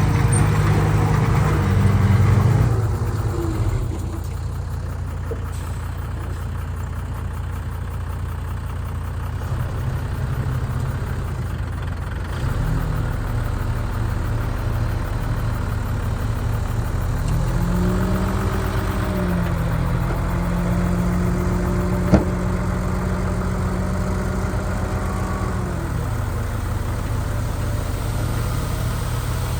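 Diesel engine of heavy earthmoving machinery running steadily, revving up a little past halfway, holding the higher speed for several seconds, then easing back down. A single sharp knock sounds in the middle of the raised revs.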